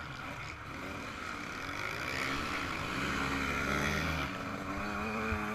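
Yamaha YZ125 two-stroke motocross engine running under load, its pitch climbing through the revs a couple of seconds in before settling near the end.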